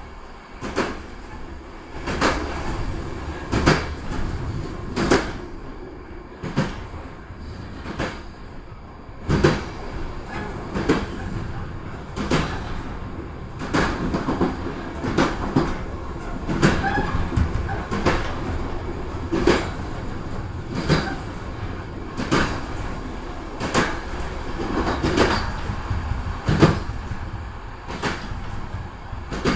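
Passenger train running, heard from the back door of the carriage: a steady rumble of wheels on rail, with sharp clacks and knocks about every second, some in quick pairs.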